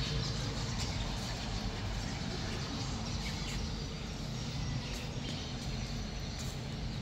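Steady outdoor background noise with a low rumble, and faint, short bird chirps here and there.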